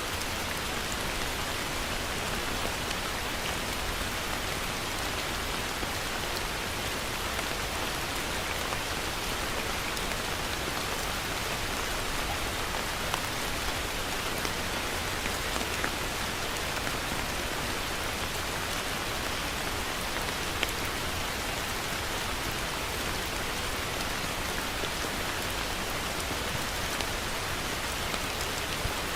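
Heavy rain falling steadily: a dense, even hiss with scattered sharp drop ticks and a low rumble underneath.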